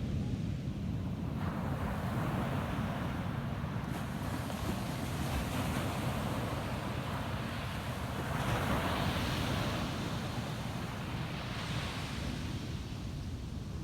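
Ocean surf breaking and washing up a sandy beach, swelling about a second and a half in and most loudly around eight to ten seconds, over a steady low rumble.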